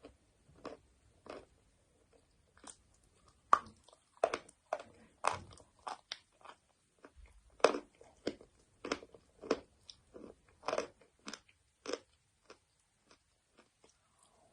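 Close-up crunching and chewing of hard white chalk: sharp, irregular bites and crunches, a few louder than the rest, thinning out to faint chewing near the end.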